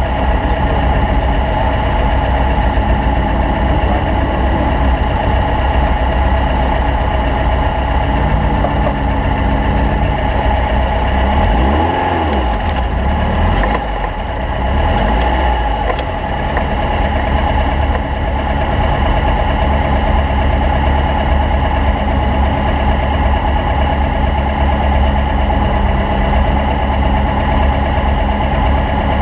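Volkswagen Beetle race car's air-cooled flat-four engine running steadily, with a low rumble underneath and a brief dip in loudness about halfway through.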